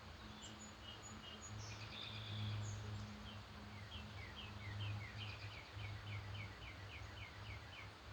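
Songbirds singing at dawn: a few short high chirps, then from about three seconds in a run of a dozen or so quick repeated downward-slurred notes, about three a second. A steady low hum runs underneath.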